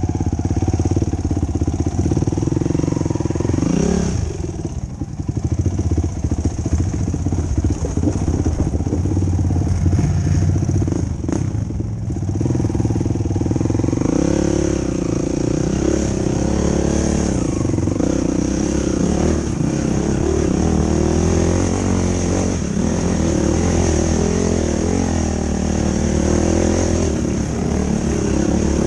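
Yamaha YFZ450 sport quad's single-cylinder four-stroke engine running under throttle while trail riding, its pitch rising and falling as the throttle opens and closes. The engine eases off briefly about four seconds in.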